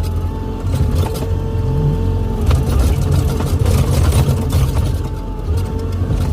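Hydraulic excavator's diesel engine running steadily, with a constant whine from the hydraulics and a few brief knocks.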